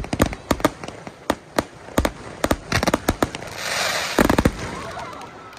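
Festival fireworks going off: a rapid, irregular string of sharp bangs and pops, several a second. About two-thirds of the way through comes a spell of crackling, ended by a loud cluster of bangs.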